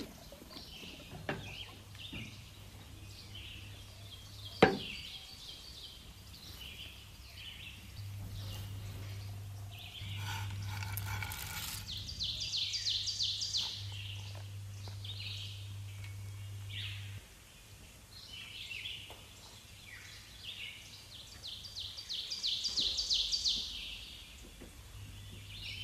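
Small birds chirping, with two spells of fast trills in the second half. One sharp knock about four and a half seconds in is the loudest sound, and a low hum comes and goes.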